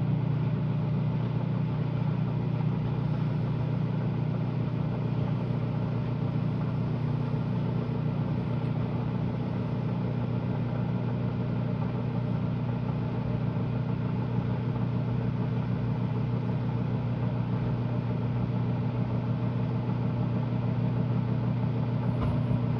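Microwave oven running: a steady low electrical hum that does not change.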